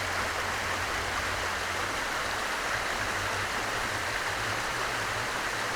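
A small waterfall and creek running steadily: an even rush of flowing water.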